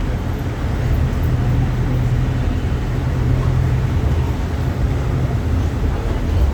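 Euro 6 bus diesel engine running steadily: a deep, even drone with a held low tone.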